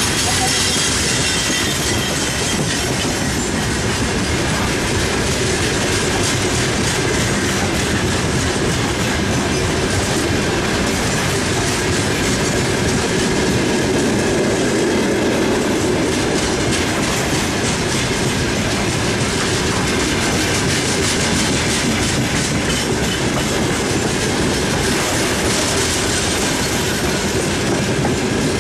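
Railway wagons rolling steadily past close by, wheels clattering over the rail joints in a continuous run of knocks.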